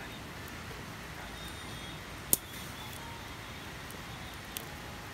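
Wood campfire burning with a steady hiss, one sharp pop about two seconds in and a smaller pop near the end.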